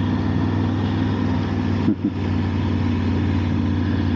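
Motorcycle engine running steadily while riding, over an even rush of road and wind noise, with a brief dip in the engine note about two seconds in.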